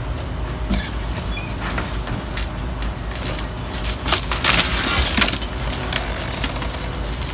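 Garbage truck engine running steadily, with scattered knocks and clatter and a louder rushing noise for about a second around the middle.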